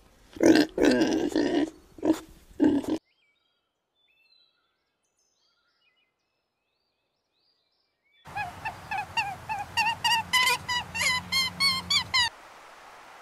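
A pig grunting in a run of loud grunts over the first three seconds while it roots in mud. After a silence, a bird chirps in a quick series of short calls, about five a second, from about eight seconds in until shortly before the end.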